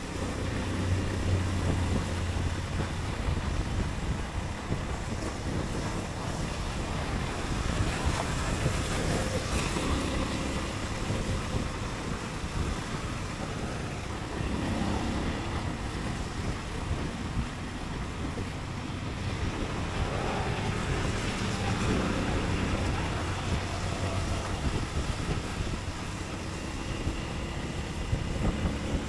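Motorcycle engine running under way, its pitch rising and falling with the throttle, with steady wind rushing over the microphone and road noise.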